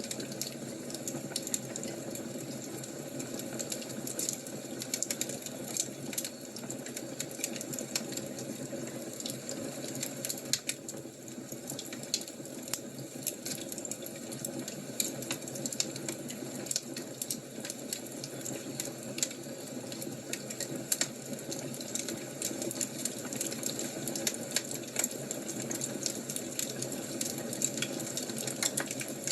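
Fire crackling steadily, with frequent irregular sharp pops and snaps over a low hiss.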